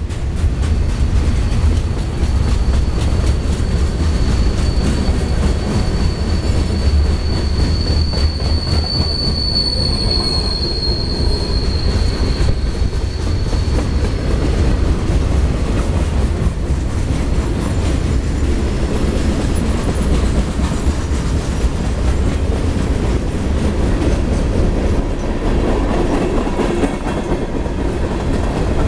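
CSX freight cars rolling past: a steady low rumble of steel wheels on the rails, with a high, steady wheel squeal that builds over the first few seconds, is strongest near the middle and fades out about halfway through.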